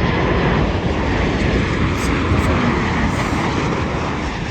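Jet airliner engines, a loud steady rush with deep rumble, easing off a little near the end.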